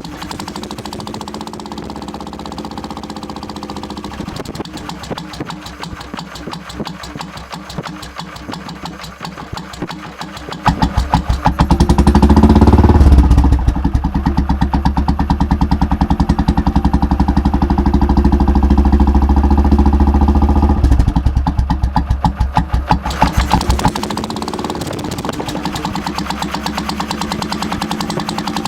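Royal Enfield Bullet 500 single-cylinder engine through a free-flowing Hitchcocks Universal silencer, idling with a loud thump, then revved sharply about a third of the way in, held at higher revs for several seconds, blipped once more and settled back to idle.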